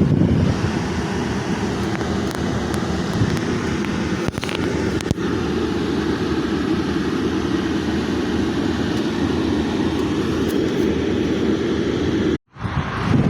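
Steady low mechanical rumble with a few faint clicks. It breaks off abruptly about twelve seconds in and starts again half a second later.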